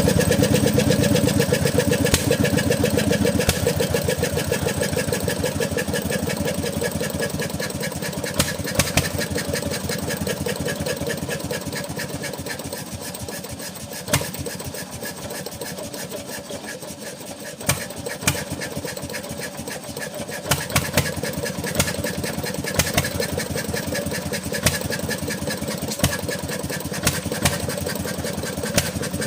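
Bernard Moteurs W14 15 hp engine running with rapid, even firing pulses. It gets quieter toward the middle, then runs steadily with a few louder sharp knocks.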